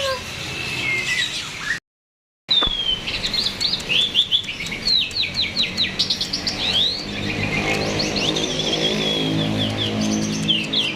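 A starling singing a fast, continuous run of chirps and whistles that sweep up and down in pitch. The sound cuts out completely for about half a second near the start. A low steady hum runs beneath the song in the second half.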